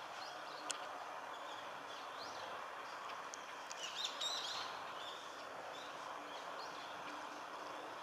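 Red-billed leiothrix giving short, thin chirping calls, scattered and mostly faint, with a brief flurry of calls about four seconds in, over a steady outdoor background hiss.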